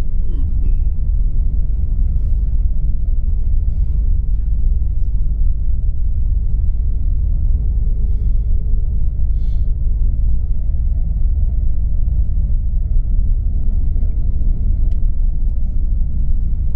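Steady low rumble of a tour coach driving at road speed, heard from inside the cabin: engine and tyre noise with no change in pace.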